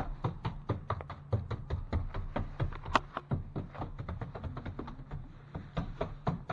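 Stomp brush dabbing drywall mud onto the wall for a texture match, a quick irregular run of taps, about three or four a second, over a low steady hum.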